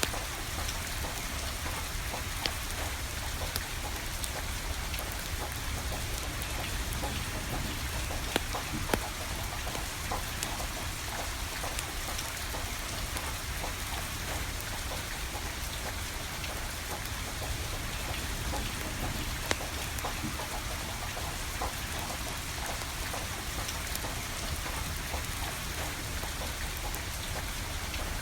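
Steady rainfall, with a few sharp pops from burning firewood scattered through it.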